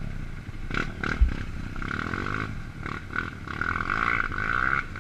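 Honda CRF230 trail bike's single-cylinder four-stroke engine revving under load, its pitch rising and falling as the rider works the throttle.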